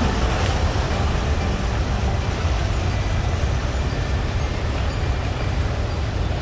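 Ocean surf: a steady wash of waves with a heavy, deep rumble underneath.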